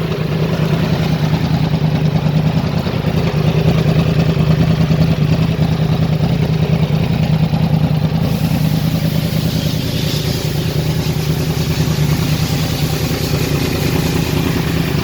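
Yamaha R1's crossplane inline-four engine running at a steady, even speed, with a loud, constant note.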